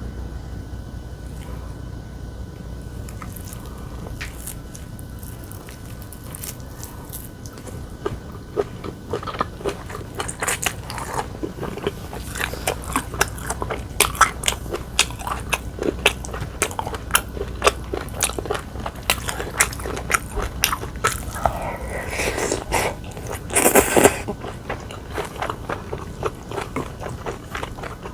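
A person chewing and biting food close to the microphone, with many quick crunchy clicks, after a quieter stretch at the start. A louder, longer sound comes a few seconds before the end.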